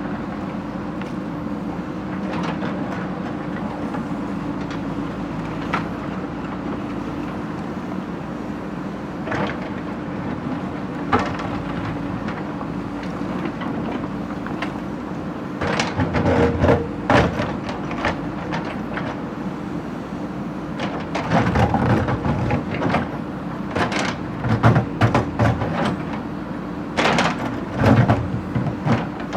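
A heavy machine's engine running steadily, with loud bursts of metallic clanking and banging about halfway through and again near the end.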